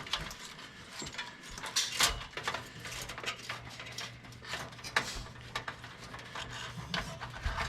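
Metal and plastic computer parts clinking and knocking as a desktop computer is stripped apart by hand, with scattered sharp clicks and a steady low hum underneath.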